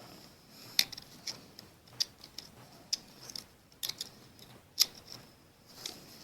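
Sharp metallic clicks and light scrapes of a small hand tool picking at a strand of broken stud inside a stud hole of a flathead Ford V8 block. There are about seven clicks, irregularly spaced.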